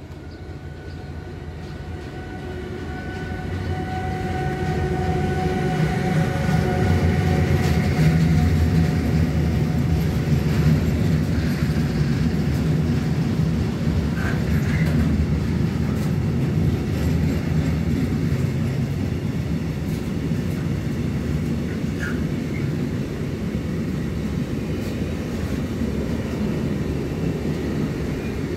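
An electric locomotive approaches with a steady high whine of several tones, growing louder until it passes about eight seconds in. The continuous rumble of a long container freight train's wagons rolling by on the rails follows.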